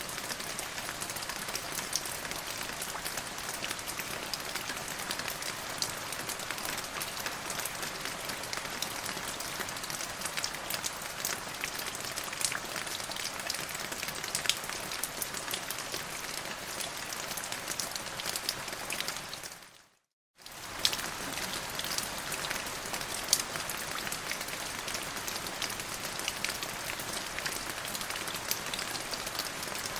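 Steady rain falling on a surface, a continuous hiss dotted with the taps of individual drops. About two-thirds of the way through it briefly fades out to silence and comes straight back in.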